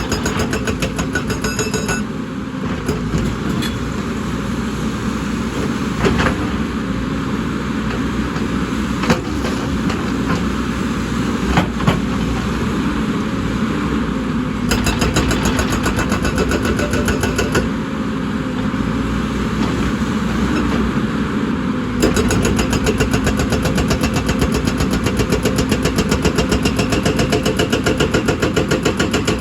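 Excavator diesel engine running steadily under working load, with a few sharp knocks in the middle; the engine gets louder about three-quarters of the way through.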